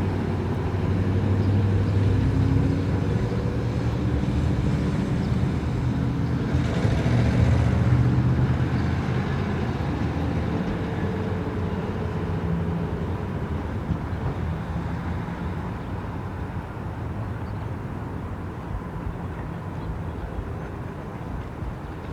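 Motor vehicle engine hum with a low drone that grows louder, peaks about a third of the way in, then slowly fades away.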